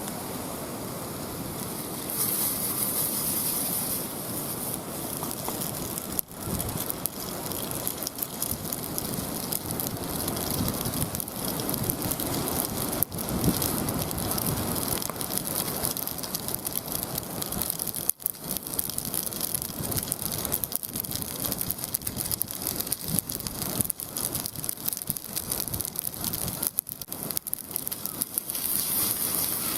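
Wood campfire burning with a steady rush and many scattered crackles and pops.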